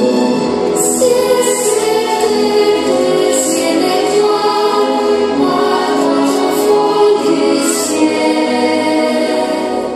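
Music with a choir singing long held notes, with a few short bright hissy accents.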